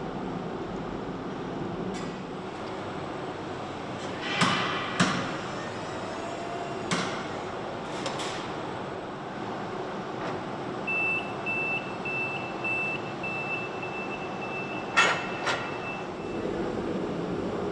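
Factory-floor machinery running with a steady hum, broken by sharp metallic clanks, some in pairs. Partway through, a high electronic beep starts repeating, then sounds as one held tone for a few seconds.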